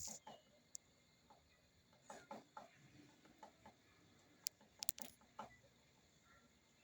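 Faint, scattered clucking of chickens, with a quick cluster of four sharp taps a little past halfway.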